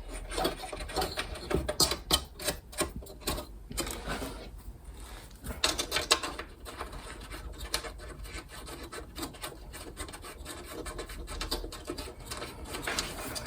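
Wing nuts being spun by hand onto the threaded studs of a kerosene heater: irregular metallic clicking and rasping, busiest in the first few seconds and again around six seconds in.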